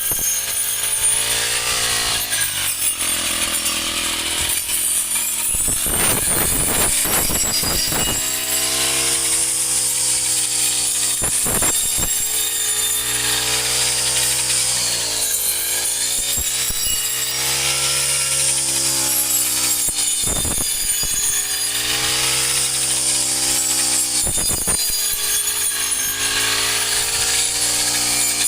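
Small petrol engine on a field machine running hard, its pitch sagging and picking up again every few seconds as it takes load, with a steady high hiss of cutting.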